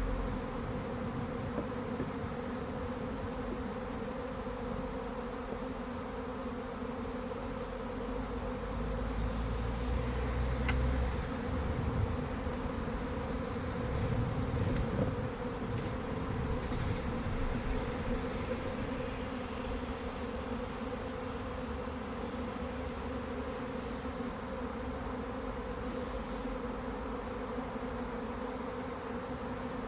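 Honey bees buzzing around a hive in a steady, continuous drone, the colony stirred up after being opened. A few low rumbles come through about ten and fourteen seconds in.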